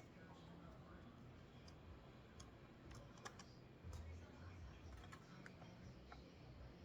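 Faint, scattered light clicks and taps of small parts and tools being handled, with one sharper click a little over three seconds in.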